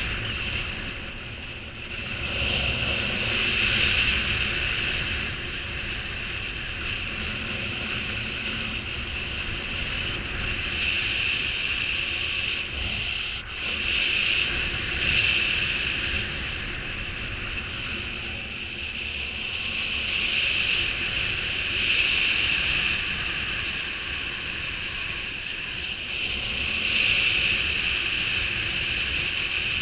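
Wind rushing over the microphone, a steady hiss and low rumble that swells and eases every few seconds in a strong wind.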